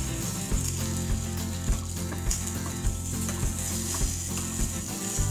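Egg omelette frying in hot oil in a small metal tempering ladle, sizzling steadily while a metal spoon scrapes against the ladle as it turns the omelette over.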